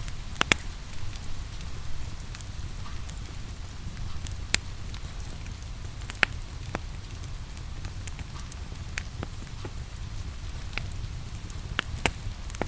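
Wood fire crackling in a fireplace, with scattered sharp pops over a steady low rumble, mixed with a steady hiss of rain.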